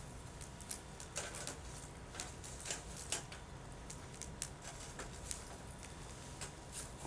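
Wood campfire crackling, with irregular sharp snaps and pops over the low steady sound of the burning fire.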